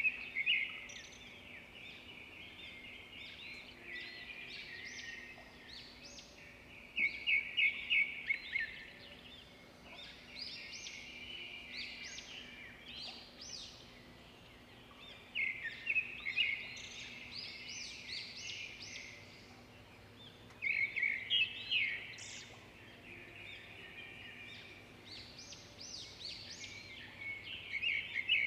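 Small birds chirping in repeated flurries of quick, high calls every few seconds, over a faint steady low hum.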